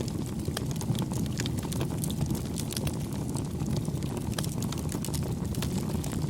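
Wood fire burning steadily with many sharp crackles and pops over a low, even rumble of flame.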